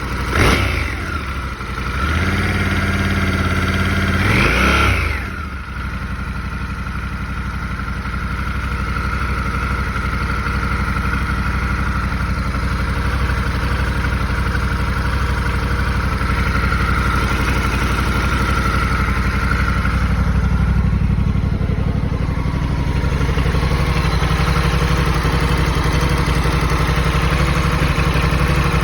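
2021 Honda Africa Twin DCT's 1084 cc parallel-twin engine running on a cold start: revved briefly in the first five seconds, then settling to a steady idle with the engine rattle of a cold start.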